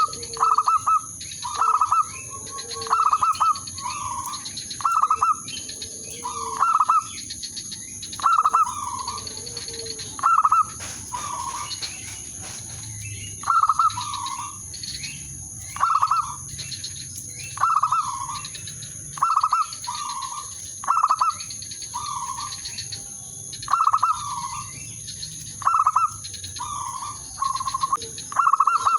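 Zebra dove (perkutut) cooing: a string of short coos about once a second, the calls of a decoy bird used to draw in rival doves. A faint steady high hiss or whine runs underneath.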